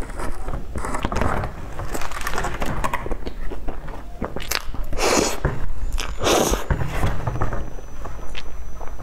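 Close-miked chewing and mouth sounds of eating cream puffs, with small clicks. Twice, about five and six and a half seconds in, a clear plastic clamshell box crackles loudly as it is handled.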